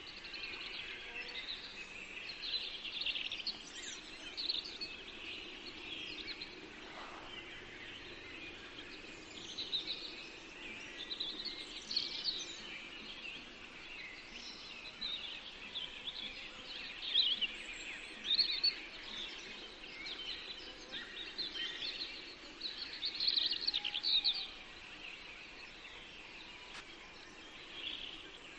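Several songbirds singing and chirping at once, a steady chorus of quick high trills and twitters over a faint background hiss.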